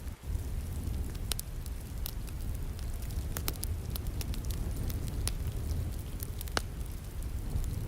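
Wood fire burning in a fireplace: a steady low rumble of flames with scattered sharp crackles and pops, one louder pop about six and a half seconds in.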